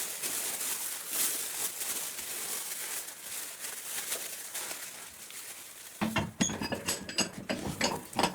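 Hissing strokes of hand rubbing or sanding. About six seconds in, they give way to a run of small metallic clinks and knocks.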